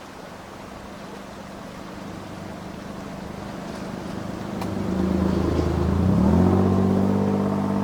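A motor vehicle's engine passing close by, growing steadily louder and loudest about six seconds in, its engine note dipping and climbing again there.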